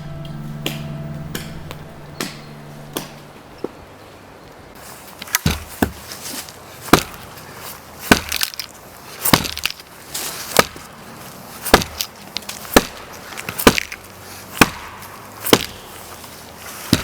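Soviet-made axe chopping firewood, striking wood about once a second in a steady rhythm. Background music fades out at the start under a few lighter knocks.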